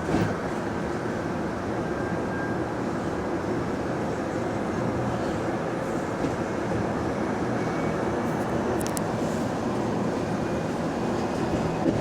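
The inside of a bus on the move: steady drivetrain and road rumble, with a few light rattles or ticks.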